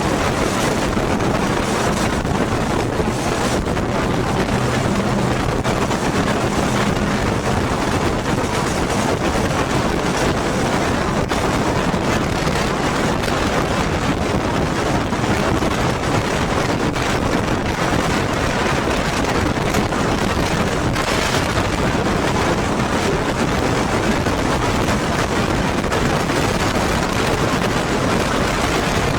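Yamaha motorcycle on the move: a loud, steady rush of wind on the microphone, with the engine's low hum under it, clearest in the first several seconds.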